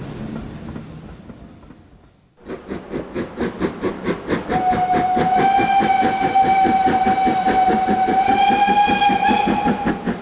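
Steam locomotive working hard with quick, even exhaust beats, sounding a long steady whistle over them from about two seconds in. Before that, an earlier train sound fades out.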